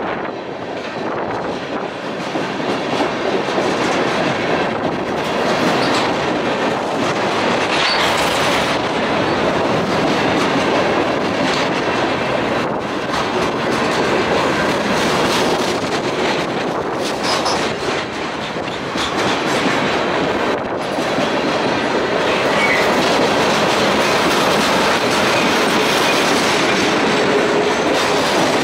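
Freight cars of a CSX train rolling past close by: a steady clatter of steel wheels over the rails, a little louder after the first few seconds, with a few brief faint wheel squeals.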